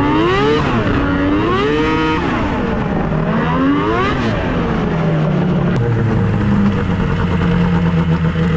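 Snowmobile engine revved up and down three times, then settling into steady running, to clear it out so it won't foul a spark plug.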